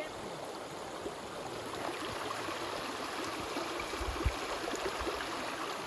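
A stream of water running steadily, with a brief low thump about four seconds in.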